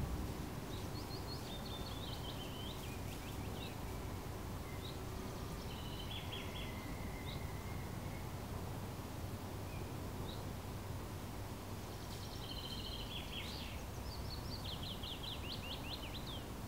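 A small songbird singing in several short chirping, trilling phrases, over a steady low background rumble.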